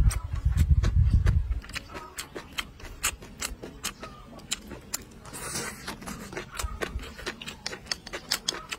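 Close-miked eating sounds: a steady run of wet mouth clicks and smacks as a person chews a mouthful. There is a low rumble in the first second and a half and a brief hiss about five and a half seconds in.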